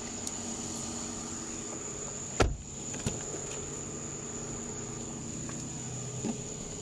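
Steady low hum of an idling vehicle under a high, steady insect drone. There is one loud thump about two and a half seconds in, and two lighter knocks later.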